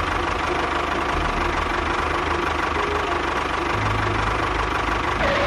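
Engine running steadily, with a low knocking rumble.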